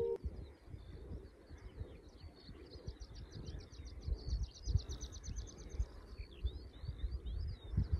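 Small birds singing, with chirps throughout and a fast, even trill of about eight notes a second in the middle, over wind rumbling and buffeting on the microphone.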